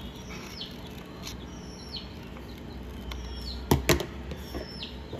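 A bird chirps repeatedly, short falling calls about once a second, over a low steady hum. Two sharp clicks come close together about three-quarters of the way through and are the loudest sounds.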